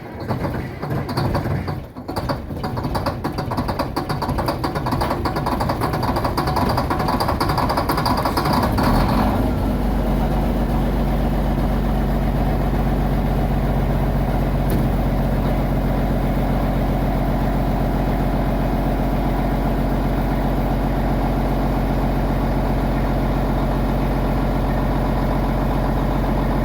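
Detroit Diesel Series 60 inline-six diesel engine on a cold start, running uneven for the first couple of seconds and then building up. About nine seconds in the sound changes abruptly, the hiss drops away, and it settles into a steady, even idle.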